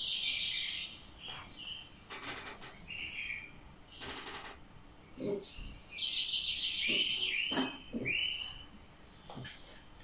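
Small birds chirping again and again in short high calls, with a quick run of falling chirps about seven to eight seconds in. A few brief rustles of hands moving over clothing.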